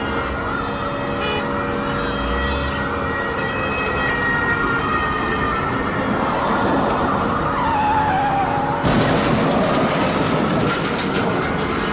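Sirens wailing over traffic noise, with a low pulse repeating every few seconds. About nine seconds in, a broad rush of noise swells in.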